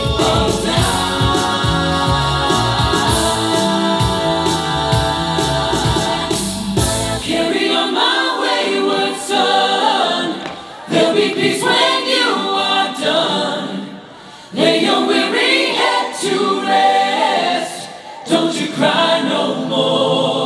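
A vocal group singing in close harmony. For the first seven seconds a low bass sounds beneath them, then it drops out and the voices carry on alone, breaking off briefly twice.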